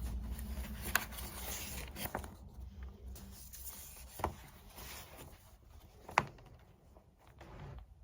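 Pen scratching across paper in a continuous rough rustle, broken by a few sharp taps, the loudest about six seconds in; it stops shortly before the end.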